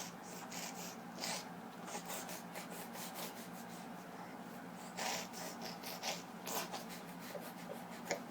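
A small child making soft breathy huffs and snuffles, scattered through, with faint rubbing sounds. The clearest puffs come about a second in and again around five seconds in.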